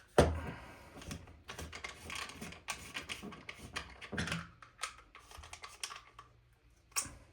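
Clicks, knocks and scraping from small parts of an airsoft rifle's internals being handled and fitted by hand. There is a sharp knock just after the start, a run of irregular clicks, and one more click near the end.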